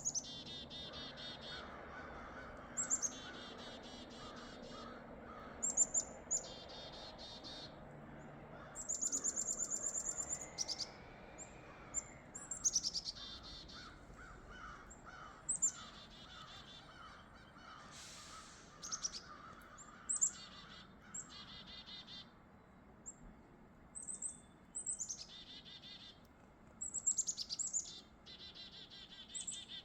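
Chickadees calling back and forth, again and again: each call is a high note falling into a quick run of buzzy repeated notes, the familiar chick-a-dee-dee-dee.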